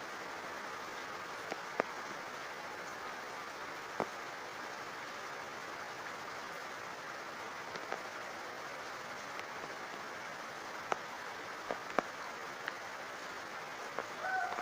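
Steady heavy rain falling, with a few sharp drips striking a hard surface now and then.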